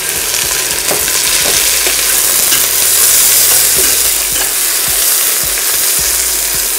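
Fresh mint leaves sizzling in hot oil with browned onions in a stainless steel pot, stirred with a metal spatula. The sizzle is a loud, steady hiss with a few light clicks from the spatula.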